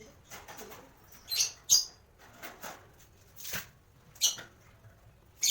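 Lovebirds chirping: about five short, sharp, high-pitched calls spread out over a few seconds.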